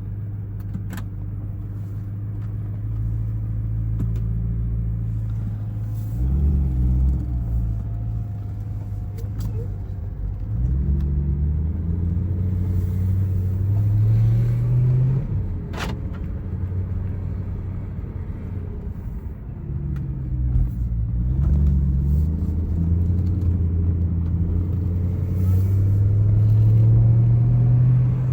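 BMW E90 M3's 4.0-litre V8 under way, its note climbing steadily through each gear and dropping back at every upshift, several times over, with a low exhaust rumble.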